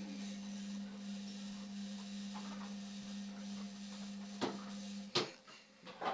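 Indesit washing machine running with a steady electrical hum that cuts off abruptly about five seconds in, with a few sharp clicks around it.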